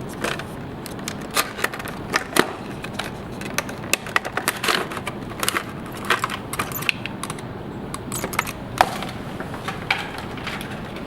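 Irregular light clicks and small rattles, a few a second with sharper ones about two and nine seconds in, over a steady background hiss: small hard objects being handled.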